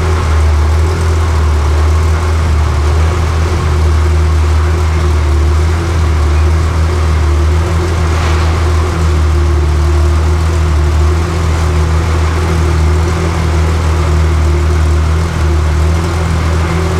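Pagani Zonda F's Mercedes-AMG 7.3-litre V12 idling steadily with a low exhaust note.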